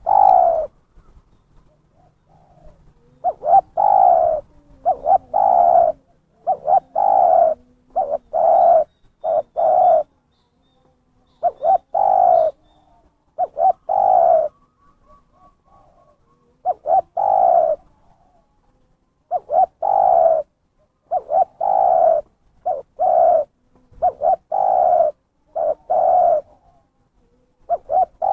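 Spotted dove (terkukur) cooing: repeated short coos that fall slightly in pitch, in groups of two or three with pauses between groups. This is a lively lure call used to call in wild doves.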